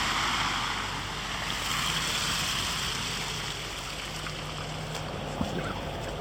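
A car driving on a wet, slushy, snow-covered road: a steady hiss of tyres and spray with a low hum beneath it. There is a single small knock about five seconds in.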